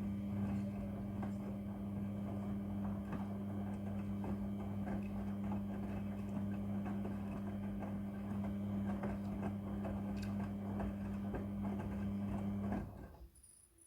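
Midea front-loading washing machine running: a steady low electric hum with a light patter of small ticks, which stops about 13 seconds in.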